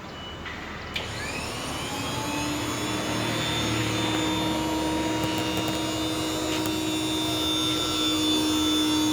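Electric scissor pallet truck's electric motor starting with a click about a second in, its whine rising in pitch and then running steadily, growing louder.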